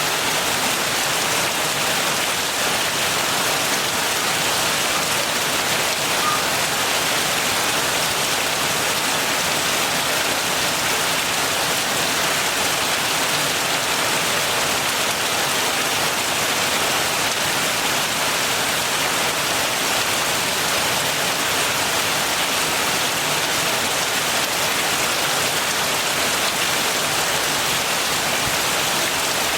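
Heavy rain falling steadily, an even hiss of many drops with no thunder or single louder drops.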